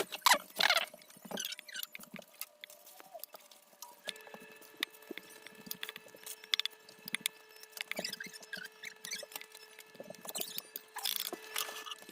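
Utensil stirring and mashing chunks of chicken and cream cheese in a thick creamy sauce in a crock pot, giving many short, irregular clicks, scrapes and wet squishing noises. A steady hum joins in about four seconds in.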